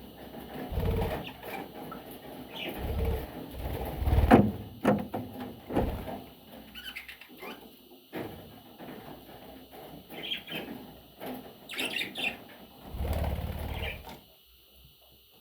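Pet budgerigars chirping in short high calls, with several bursts of wing flapping and rustling and a sharp knock about four seconds in.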